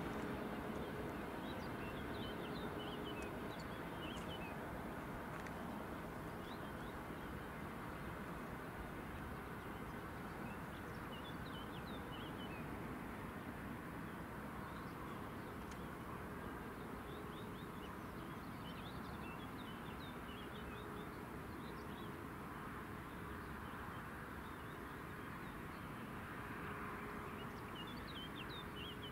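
Birds chirping in short scattered calls over a quiet, steady outdoor background hum, with a faint steady tone that fades in and out several times.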